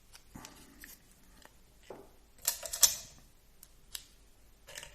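Small plastic RC car suspension parts clicking and rattling as they are handled and fitted by hand. A cluster of louder clicks comes about two and a half seconds in.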